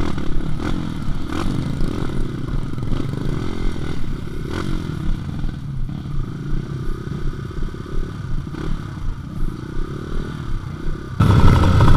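Dirt bike engine running at low revs, its pitch rising and falling as the throttle opens and closes, with clatter from the bike over the rough trail. Near the end the sound cuts suddenly to something much louder.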